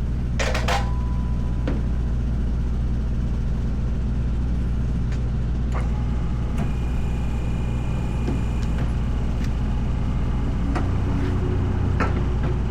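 An engine idling steadily, a constant low hum, with a few light clicks and knocks scattered through it.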